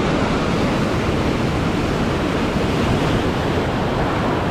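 Steady wash of sea waves on a shallow reef, mixed with wind noise on the microphone.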